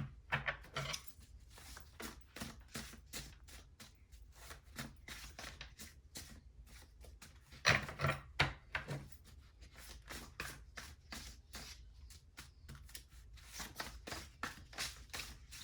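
Tarot cards being shuffled and handled: irregular soft slaps and clicks of the cards, with a louder cluster about eight seconds in.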